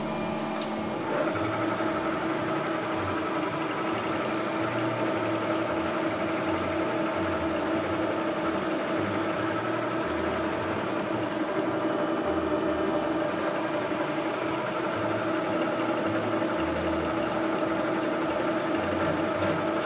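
Electric workshop machine tool running steadily with a constant motor hum, its tone shifting slightly about a second in.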